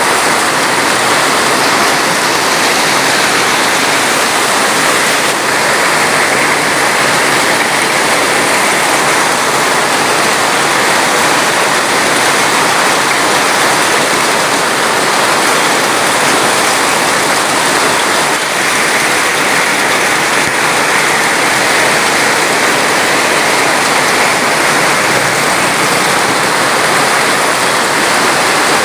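Loud, steady rush of water, even and unbroken.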